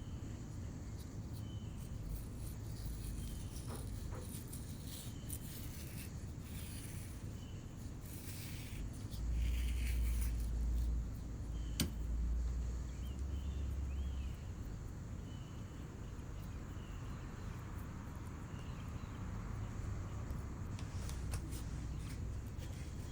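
Hands working coarse chamotte clay: soft rubbing and handling, with heavier low bumping for a few seconds in the middle and one sharp click.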